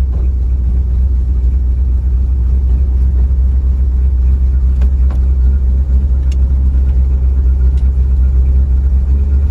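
Ford F600 truck's carbureted engine running with a steady low rumble, heard from inside the cab.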